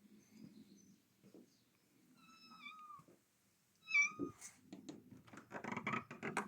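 A domestic cat meowing twice: a drawn-out meow that drops in pitch about two seconds in, and a short one about four seconds in. A quick run of clicks and rustling follows near the end.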